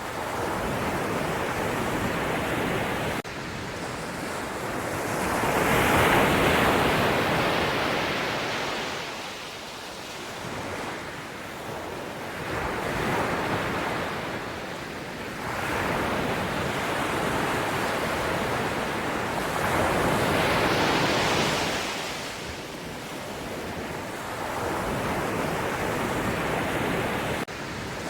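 Ocean surf: waves breaking and washing up the shore one after another, the rush of water swelling and fading every few seconds.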